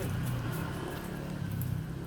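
Steady low engine-like hum, with a few faint clicks over it.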